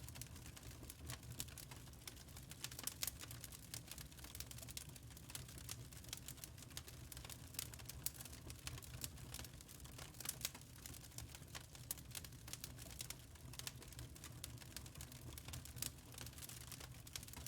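Wood fire crackling in a fireplace: frequent irregular small pops and snaps over a low steady rumble.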